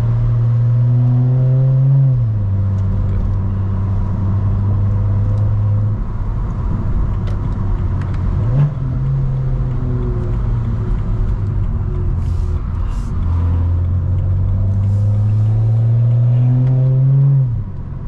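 Straight-piped turbocharged straight-six of a BMW E92 335i heard from inside the cabin, pulling through the gears: the engine note climbs, then drops at a gear change about two seconds in, holds steady with a short blip of revs midway, then climbs again and drops at another shift near the end.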